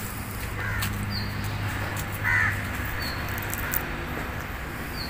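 Birds calling: one harsh call about two seconds in, and short high chirps repeating every couple of seconds.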